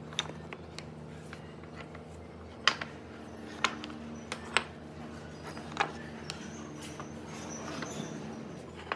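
Irregular sharp clicks and knocks, scattered a second or so apart, over a steady low hum.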